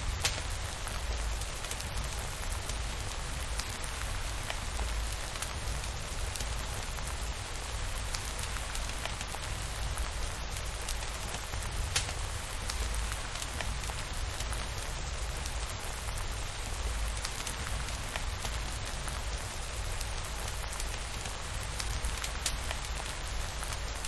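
Steady rain falling, with scattered sharp ticks of drops and a steady low rumble underneath.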